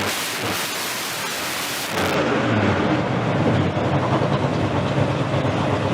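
351 cubic-inch V8 running after months of sitting, with no rod knock to be heard. The first two seconds are a loud rushing noise; then the sound changes abruptly to a steady, low, pulsing idle.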